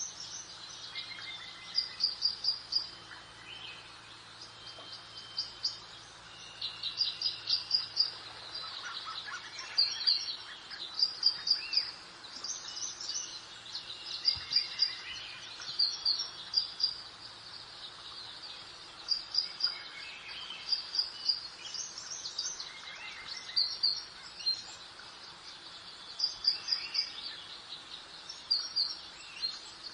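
Several songbirds singing over a faint, steady background of breeze: short runs of quick, high chirps and trills repeating every second or two, with some birds answering others.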